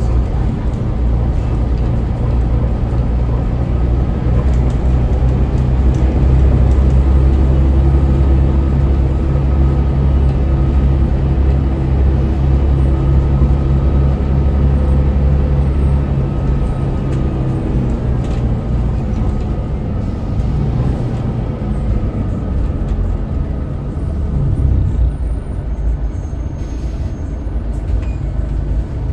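Scania L94UB city bus's diesel engine running while the bus is under way, with a steady whine held through the middle that eases off about two-thirds in.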